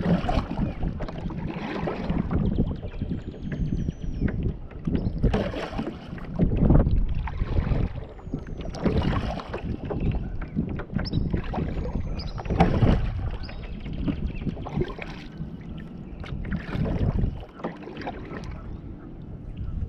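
Kayak paddle strokes in the water: a swish and splash every one to three seconds as the kayak is moved, with wind rumbling on the microphone.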